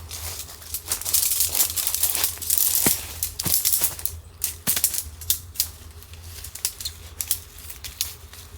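Rustling with many quick irregular clicks and ticks of something being handled, busiest in the first half and sparser later.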